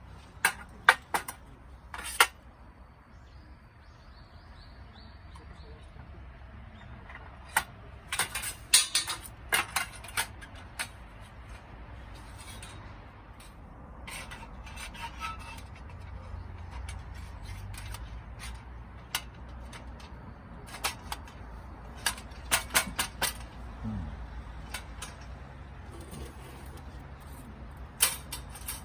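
Metal camp gear being handled: scattered sharp clinks and knocks, coming in several short clusters, over a steady low rumble.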